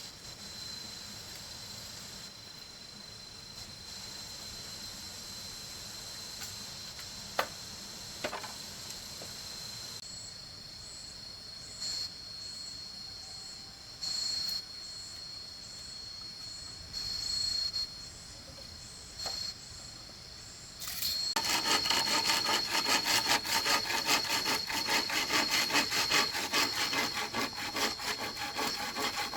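A hand saw cutting through wood in quick back-and-forth strokes, starting suddenly about two-thirds of the way through and keeping up a steady rhythm. Before it, only a steady high insect drone with a few light knocks.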